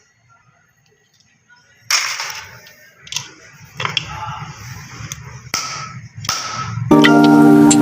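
Near silence, then a series of sharp knocks and swishes about two seconds in, followed by music coming in near the end.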